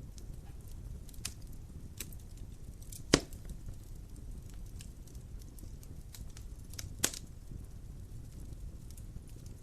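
Wood fire burning in a fireplace: a low steady rumble with scattered small crackles, and two sharp louder pops, about three seconds in and about seven seconds in.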